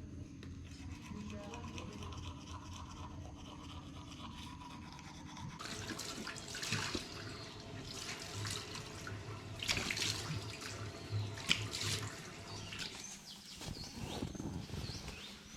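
Brisk, irregular scrubbing strokes with a little water, starting about five seconds in over a low steady hum.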